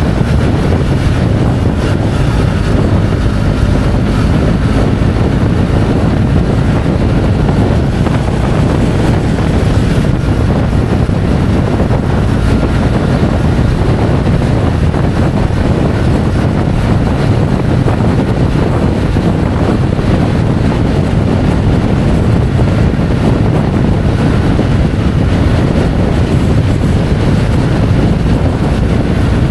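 Motorcycle riding at steady speed: heavy wind rush on the microphone over the steady hum of the engine.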